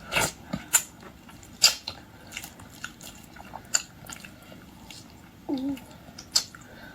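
Red shrimp shells being cracked and peeled by hand, in scattered sharp clicks and crackles, the loudest just after the start and about a second and a half in. A short hum that bends up and down comes about five and a half seconds in.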